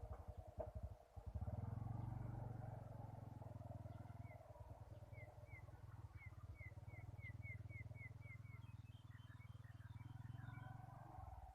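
Faint, steady low rumble, over which a bird gives a run of about a dozen short, high chirps, two or three a second, starting about four seconds in, followed by scattered twittering.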